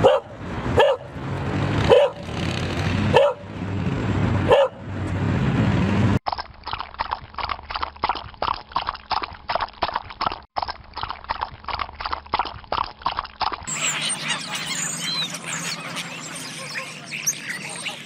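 A run of animal call recordings. First come five loud calls about a second apart, then a fast series of calls at about four a second, and last a busier recording full of short high chirps.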